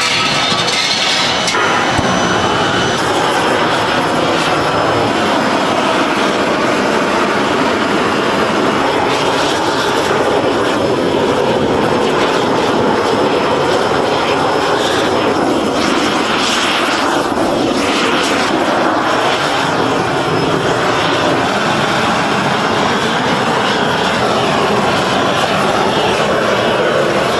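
Loud, steady rushing noise of running factory machinery, with no clear rhythm or pitch.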